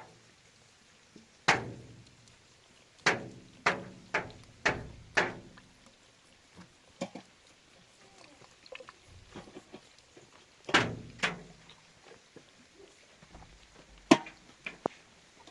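A series of sharp knocks with short ringing tails. There is one, then five in quick succession about half a second apart, then two more pairs later.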